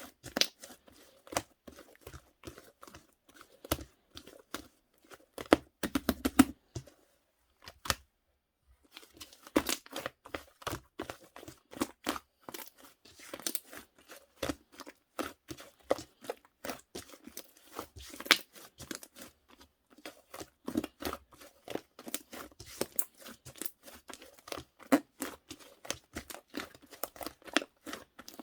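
Cloud slime being stretched, squeezed and poked by hand close to the microphone, giving dense, irregular crackling and tearing pops. It briefly stops about seven seconds in.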